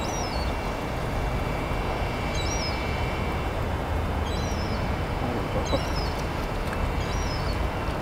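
A songbird repeating a short high chirp that rises and falls, about every second and a half, over steady low outdoor background noise.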